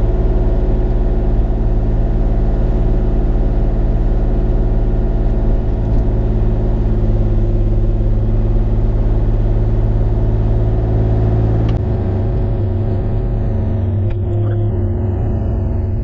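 Diesel engine of a Bobcat E35 mini excavator running steadily at working speed; about twelve seconds in its sound turns rougher and slightly quieter.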